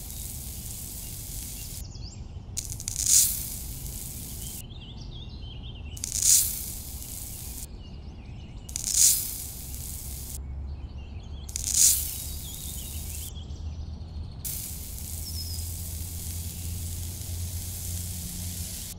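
Fine dry sand pouring from a small plastic bucket onto a plastic tray: a hiss that swells five times, about every three seconds.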